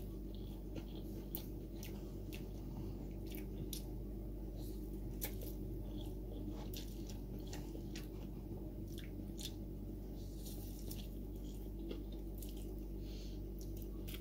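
Close-up eating of instant fried noodles with wooden chopsticks: soft chewing and mouth sounds with scattered small clicks, over a steady low background hum.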